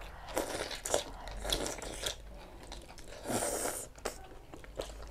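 Close-miked chewing and biting of goat meat in curry: irregular wet clicks and crunches of a mouthful being worked. A short sharp breath about three and a half seconds in.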